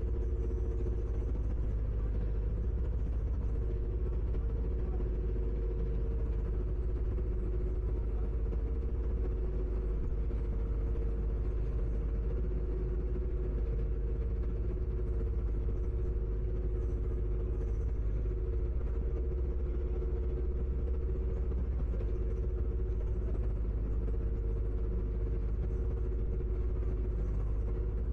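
Ferry's engines droning steadily: a deep low rumble under a constant two-note hum.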